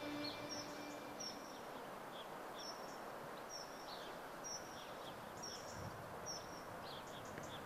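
Outdoor ambience: a bird repeats a short high chirp about once a second over a steady background noise, with fainter lower chirps between.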